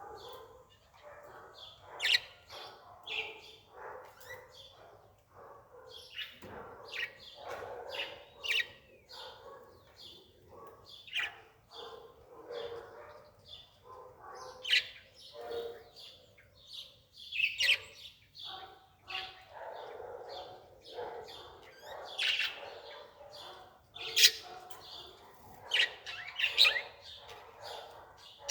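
Birds chirping, with short, sharp calls coming every second or so throughout.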